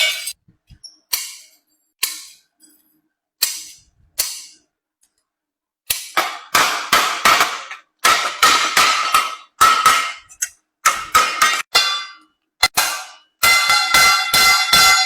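Hammer striking galvanized sheet iron with a metallic ring as a water ladle is shaped. A few single blows come first, then a short pause, then quick runs of several blows a second.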